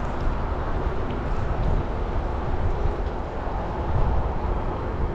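Steady rushing wind and road noise from a bicycle ride on a wet road, heaviest in the low end, with no change through the stretch.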